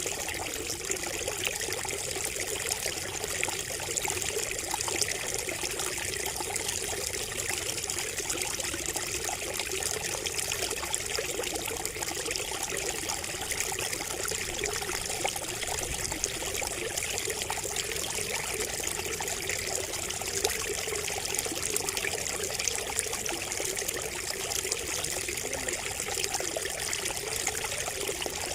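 Water trickling steadily from a bamboo spout, a continuous run of small splashes with no pauses.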